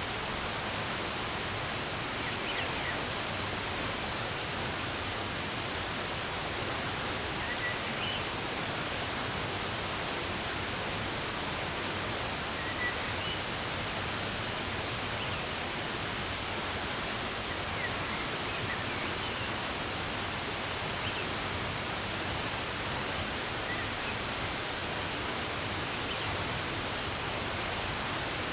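Steady rush of running water, with faint, scattered bird chirps over it.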